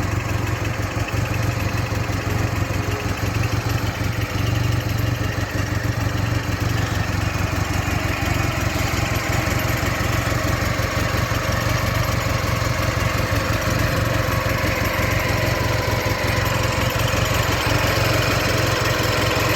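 Ural motorcycle's air-cooled flat-twin engine idling steadily.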